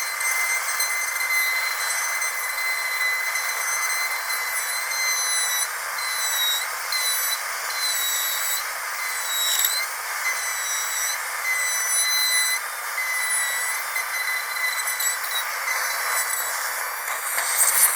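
Dentist drill whining steadily at a high pitch over a hiss. The whine dips briefly a couple of times, and a louder burst of hiss comes near the end.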